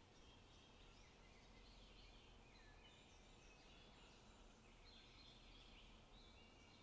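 Faint forest birdsong: several small birds chirping and trilling at once, with short high calls overlapping throughout, over a low, steady outdoor rumble.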